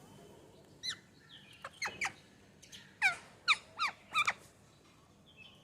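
A parakeet giving about six short, sharp calls, each dropping quickly in pitch, spread over a few seconds as the birds squabble over food.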